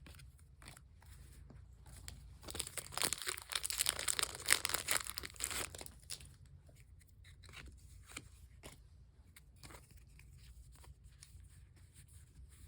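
Foil wrapper of a Pokémon booster pack being torn open: a loud stretch of tearing and crinkling from about two to six seconds in, then scattered light crinkles and clicks.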